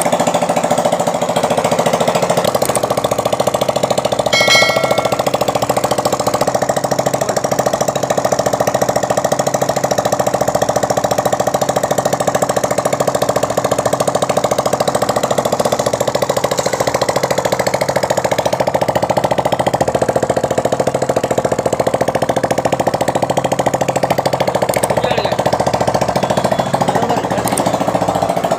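Motorcycle engine running steadily at idle, a fast even chugging.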